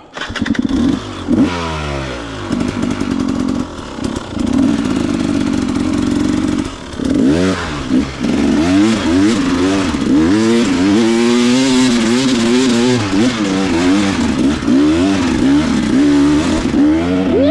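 Dirt bike engine running hard, its revs climbing at first, then rising and falling over and over from about halfway as the throttle is worked.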